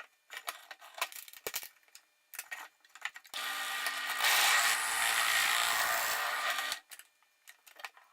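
A few light clicks and knocks, then a drill press runs for about three and a half seconds from about three seconds in, a long metal twist bit (not a wood bit) boring into a wooden block, and stops. A few small clicks follow.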